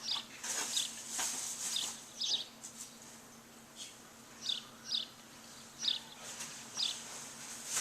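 Small birds chirping: short, separate chirps about once a second, in an irregular pattern, with a few brief crackles between them.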